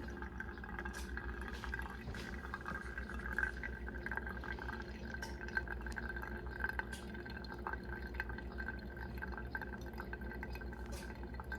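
Quiet indoor sound with a steady low hum and scattered small clicks and taps.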